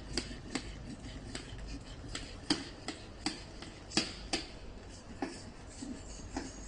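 Plunger of a glass coffee press pumped up and down to froth milk, its rod and lid clicking sharply about two to three times a second.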